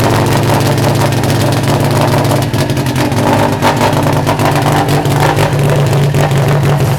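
Subaru WRX STI N14's turbocharged flat-four boxer engine running steadily at a loud idle, not yet warmed up.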